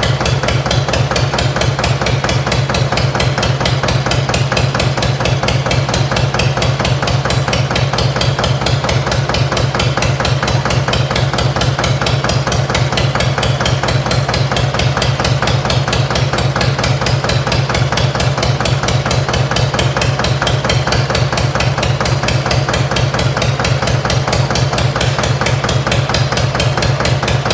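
Armstrong Siddeley diesel engine on a Massey baler running steadily with a fast, even knock. It is only half there: one injector is not firing, so the two-cylinder engine runs on one cylinder.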